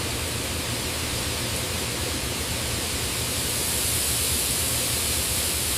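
Steady rushing noise of factory processing machinery, with a low hum underneath.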